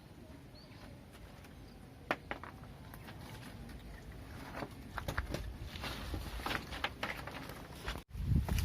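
Footsteps and rustling through vegetation, faint at first, with scattered clicks growing busier toward the end.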